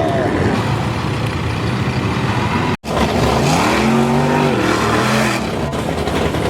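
Mud truck engine running loud. After a sudden cut about three seconds in, an engine revs up and back down.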